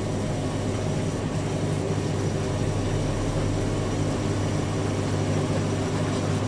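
Two front-loading washing machines, a Fisher & Paykel WM1490F1 and a Hoover A8582 washer dryer, running side by side with a steady motor and drum hum. One of them is distributing its load ahead of a spin.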